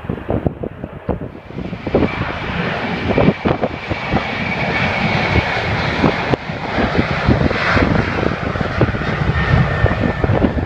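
Jet airliner passing close, its engines building to a loud rush with a high whine that slowly falls in pitch. Wind buffets the microphone throughout.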